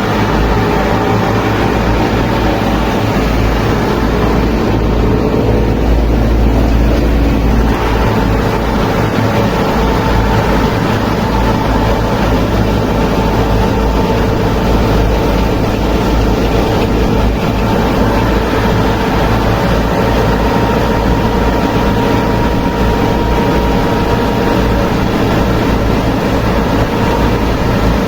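A mini tractor running steadily, with a constant low hum and an even whine over it.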